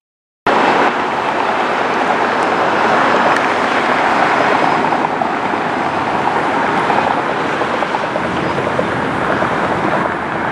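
Jet airliner engines making a steady, loud rushing roar. The sound drops out completely for about half a second at the very start.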